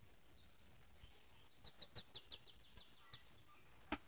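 Near silence broken by a quick series of about ten high chirps from a small bird, then a single sharp click near the end.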